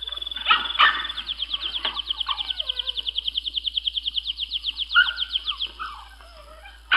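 A caged songbird trilling: a fast, even run of high chirps at about nine a second that lasts several seconds and then stops, with a few softer, lower chirps and calls around it.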